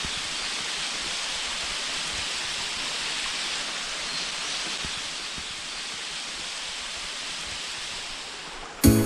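Waterfall's falling water rushing as a steady, even hiss. Music cuts in loudly right at the end.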